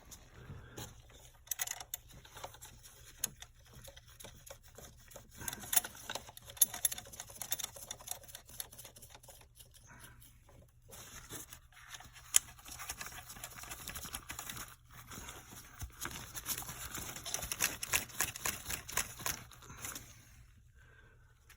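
Hand work with tools and small parts: irregular clicks, taps and rubbing, with a few sharper clicks and a busier stretch near the end.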